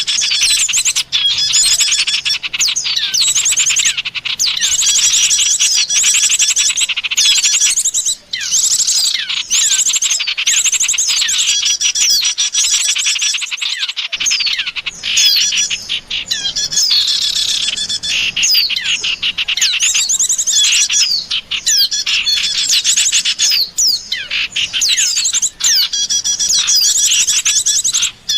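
Bird-luring recording: many small songbirds chirping and trilling at once in a dense, unbroken chatter of quick high notes.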